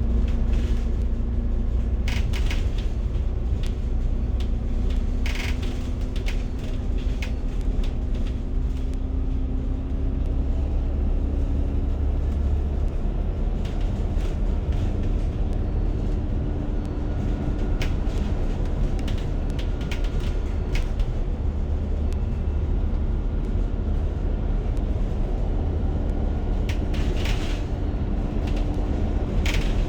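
Steady low rumble of a moving public-transit vehicle heard from inside the cabin, with a faint motor hum that slowly rises in pitch and scattered rattles and clicks.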